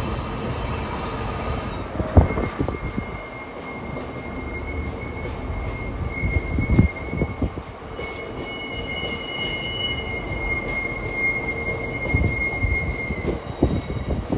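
Train passing slowly on the rails, its wheels giving a steady high-pitched squeal, with a few heavy knocks and clanks from the wheels and wagons.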